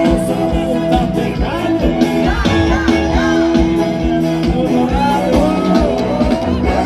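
Live sertanejo band music with a steady beat and a voice singing over it.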